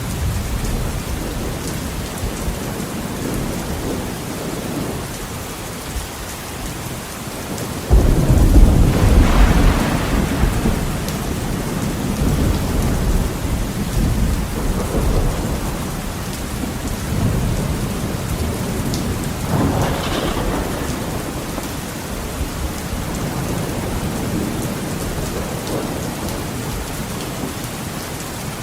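Heavy rain falling steadily with thunder. A sudden loud thunderclap about eight seconds in rumbles on for several seconds, and a second, smaller clap comes near twenty seconds.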